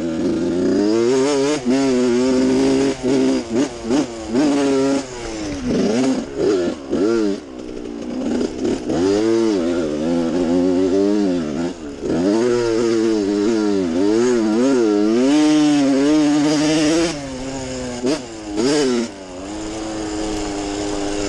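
Dirt bike engine being ridden hard on trails, its pitch climbing and falling over and over as the throttle is opened and chopped, with several brief drops where the throttle shuts off.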